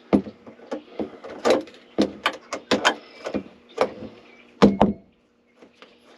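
Irregular sharp clicks and knocks of a wrench, bolts, washers and nuts being handled and fitted, about a dozen over five seconds, the loudest near the end, over a faint steady hum.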